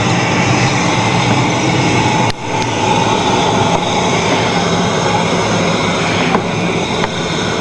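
Yellowstone geyser vent roaring steadily: a loud, fan-like rush of escaping steam. The roar dips briefly a little over two seconds in.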